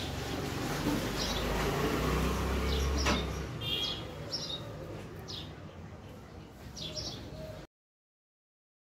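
A small bird chirping repeatedly, short high chirps about once a second, over a low background hum, with one sharp click about three seconds in. The sound cuts off to dead silence about a second before the end.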